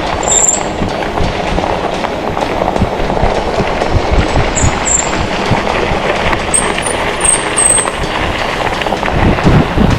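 E-bike being ridden over a forest trail: a steady rush of wind on the microphone and tyres rumbling over the ground. Short high squeaks come a few times along the way.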